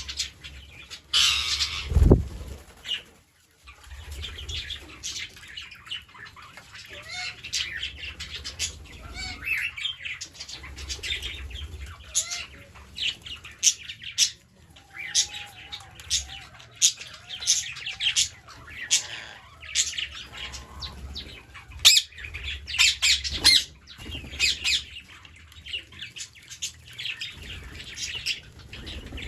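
A flock of green parrots calling: many short, shrill squawks and chirps, with a few lower whistling glides mixed in. A loud thump comes about two seconds in.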